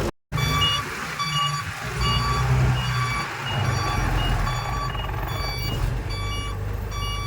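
Backup alarm of a heavy machine beeping in a steady repeated rhythm over the low rumble of its diesel engine as it reverses.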